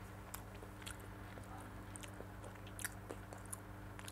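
A child chewing a mouthful of soft chicken mayo roll close to a clip-on microphone: faint, scattered wet mouth clicks, with a louder click near the end, over a steady low hum.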